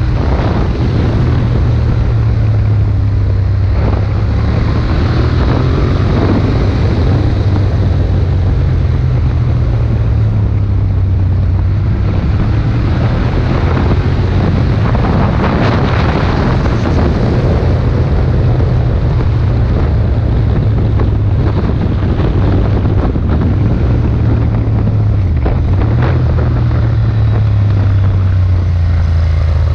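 Ducati Monster 1200's V-twin engine running steadily while riding, under heavy wind noise on the action camera's microphone. The engine note shifts slightly in pitch a few times, dipping near the end.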